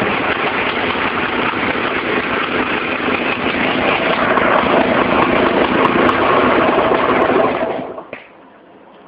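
Husqvarna SM 125 S's single-cylinder two-stroke engine running loud and harsh through a mobile phone's microphone. The engine sound cuts out about eight seconds in, leaving only a couple of faint clicks.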